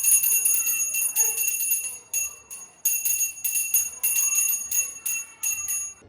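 Handheld puja bell (ghanti) rung rapidly and continuously, with a short break about two seconds in.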